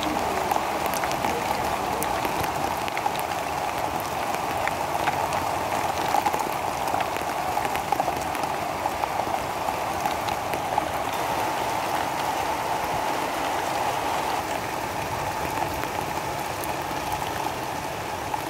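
Steady rainfall, with individual raindrops ticking sharply close by.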